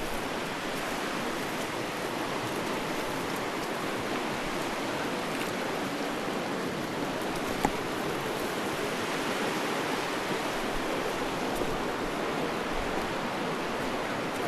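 A fast mountain river rushing steadily. One sharp click sounds about halfway through.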